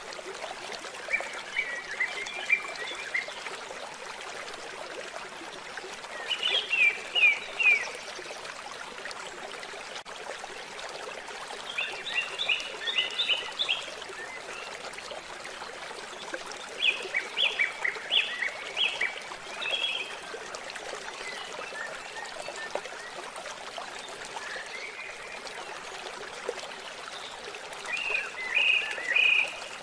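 Steady trickling, running water, with a songbird singing short phrases of quick high notes five times, a few seconds apart.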